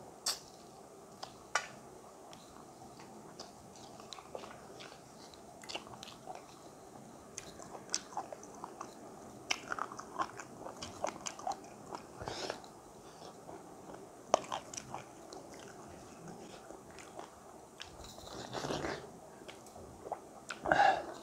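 Close-up eating sounds: chewing and mouth clicks of makai ko aato (cornmeal dhido) with chicken wing curry eaten by hand, along with fingers working the dhido in a steel plate. The sounds come as many short scattered clicks and smacks, with two louder bursts near the end.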